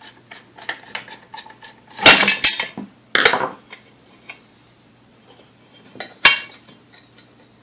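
Metal clatter of mixer parts and hand tools being handled during disassembly: a loud clattering about two seconds in, another a second later, and a single sharp clank near six seconds, with light clicks and taps between.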